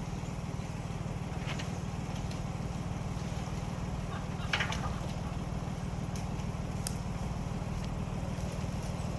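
Jeep engine idling steadily, with a brief scratchy sound about halfway through.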